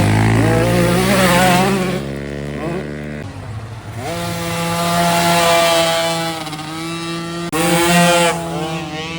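Several dirt bike engines revving during a race, their pitches rising and falling as the riders work the throttle. The engine note settles into a steadier high pitch partway through, and about seven and a half seconds in a bike comes in suddenly louder.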